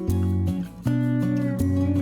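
Background music led by a strummed acoustic guitar over a steady bass line.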